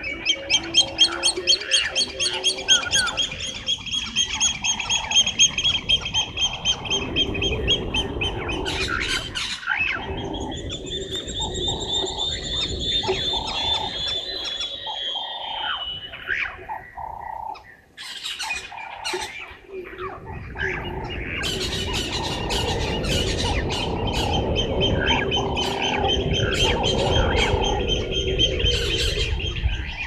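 Wild birds calling: a fast run of repeated high, chattering notes for the first several seconds, then a different series of arching notes, and more chattering calls in the second half, over a steady low rumble.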